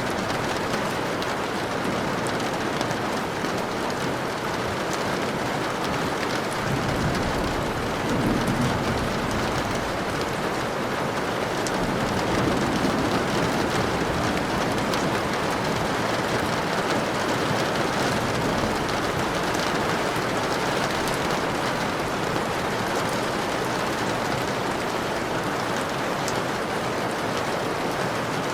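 Steady rain falling, a dense even hiss with scattered fine drop ticks, swelling slightly a couple of times.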